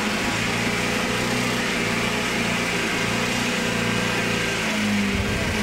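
GAZ-69 off-roader's engine running steadily under load as it crawls through mud, the revs rising a little near the end.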